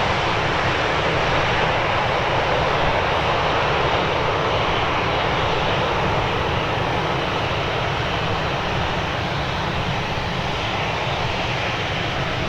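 Airbus A320neo's CFM LEAP-1A turbofan engines running in a steady roar that eases off slightly toward the end.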